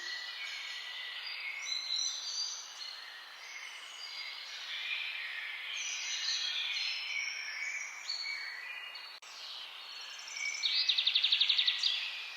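Several songbirds singing at once: overlapping chirps and short whistles. Near the end comes a loud, fast trill of a dozen or so evenly repeated notes.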